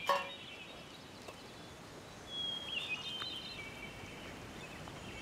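A short metallic clink from the small metal tin being handled right at the start. Then a quiet outdoor background with a few high bird chirps about two to three and a half seconds in, and again near the end.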